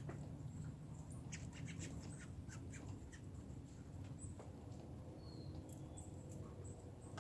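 Faint outdoor ambience: a steady low rumble, with a quick run of sharp clicks a little over a second in and scattered brief, high chirps.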